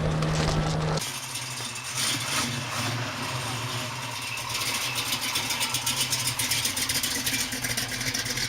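Rat rod pickup truck's engine idling. The sound changes abruptly about a second in, then settles into a steady idle with a fast, even pulse.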